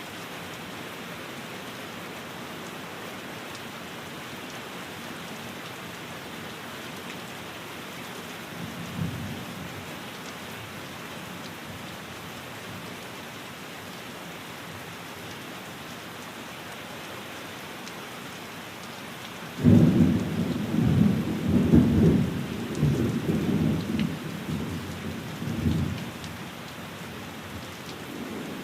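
Steady rain, with a short low rumble of thunder about nine seconds in, then a sudden, much louder thunderclap about twenty seconds in that rolls on for around six seconds.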